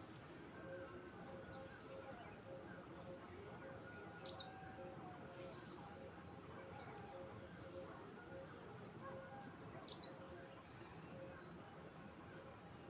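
A small songbird singing short, high, twittering phrases, about one every three seconds, over faint background noise.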